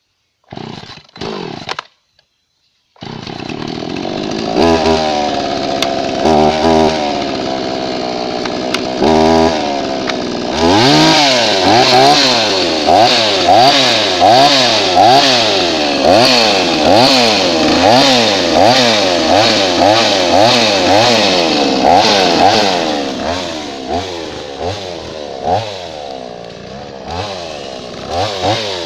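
Blue Max two-stroke chainsaw being started: a couple of short sputters, then the engine catches about three seconds in and idles with a few short throttle blips. From about ten seconds in it is revved up and down over and over, about once a second.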